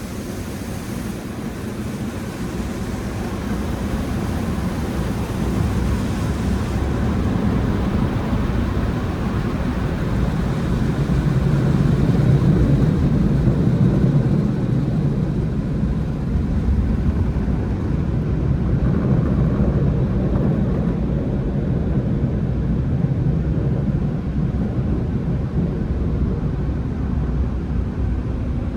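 Automatic car wash tunnel equipment running with a steady rushing noise, swelling to its loudest about halfway through and then easing a little.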